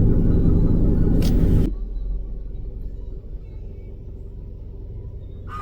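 Low rumble of a stopped vehicle idling, loud at first, then dropping suddenly to a much quieter rumble a little under two seconds in. A goose honks right at the end.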